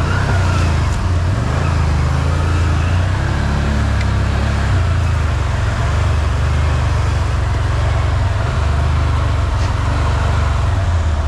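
ATV engine running with a steady low rumble, its pitch shifting as the throttle is worked, a little after the start and again about three to four seconds in.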